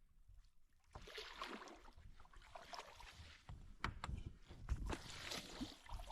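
Faint sloshing of water with rustling and light knocks, starting about a second in.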